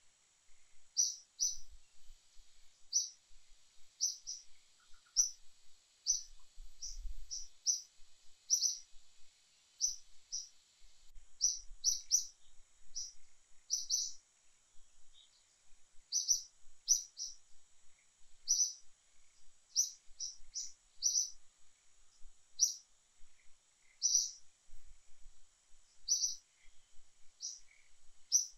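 A bird giving short high chirps over and over, about one to two a second in loose runs, with a faint steady high tone behind.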